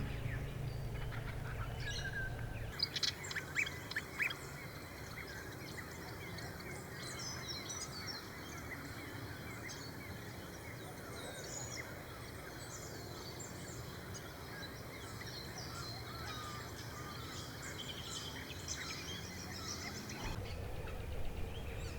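Many small birds chirping and calling over a steady outdoor hiss, with short sharp calls coming thick and fast about three to four seconds in. Soft background music plays at first, stops about three seconds in, and returns near the end.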